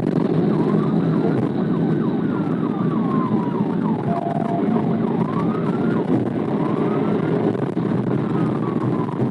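Police siren wailing, its pitch rising and falling slowly in long cycles, with quicker yelping sweeps between them, over steady vehicle engine and road noise.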